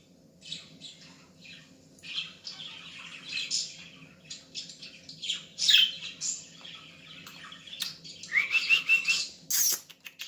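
Young budgerigars chirping and chattering: a string of short, high chirps, the loudest near the middle, then a warbling trill about eight seconds in.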